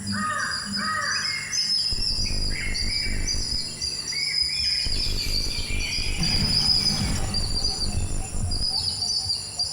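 Birds chirping with many short, quick notes over a steady high insect drone, with a low rumble from about two seconds in until near the end.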